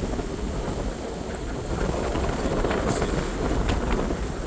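Wind buffeting the microphone over a steady low rumble from a moving vehicle, with a few faint ticks.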